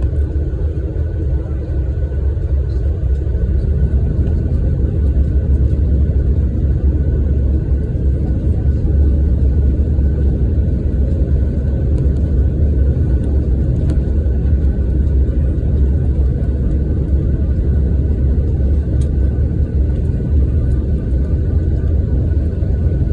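Airliner landing: a steady deep rumble of engines and rushing air, with a faint, steady high whine over it.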